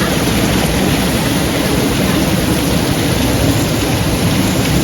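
Heavy rain and strong wind in a severe thunderstorm: a steady, loud rush of noise that does not let up.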